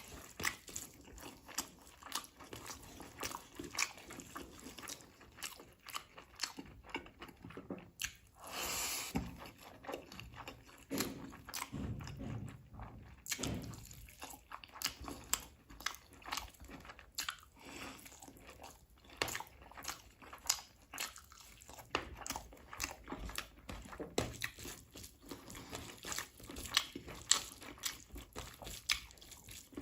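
Close-miked eating of chicken leg curry and rice by hand: wet chewing, biting and mouth smacks, many short clicks and crunches in quick succession, with a longer hiss-like noise about nine seconds in.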